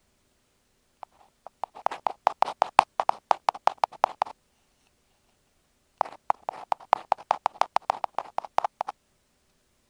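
Ear pick scraping on an earphone microphone in quick scratchy strokes, about five a second. It comes in two runs of roughly three seconds each, with a short pause between them.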